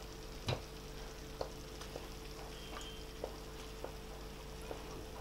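Thick tomato masala cooking in a kadai, sizzling faintly, with small sharp pops every half second to a second, the strongest about half a second in, as pieces of pomfret are laid into it.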